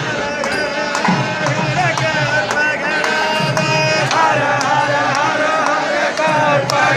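Temple festival music: a wavering melody line played over frequent drum strokes.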